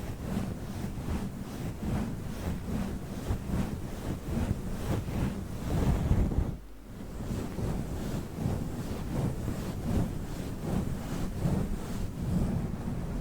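Fluffy furry microphone windscreen being rubbed and brushed right on the microphone, a dense, close, rustling noise made of many quick irregular strokes. It breaks off briefly a little past halfway.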